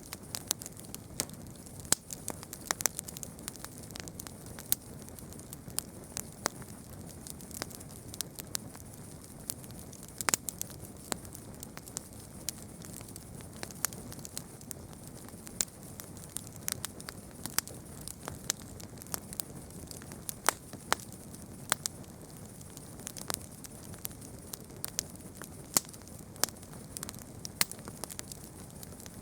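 Campfire burning, the wood crackling with frequent irregular sharp pops over a soft steady low rush of the flames.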